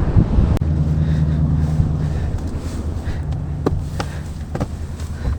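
A Jeep's engine running with a steady low hum, and a few sharp clicks over it.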